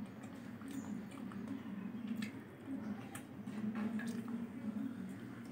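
A man chewing a mouthful of chicken kabab, with wet mouth sounds and scattered light clicks as his fingers pick food off a steel plate, over a low steady hum.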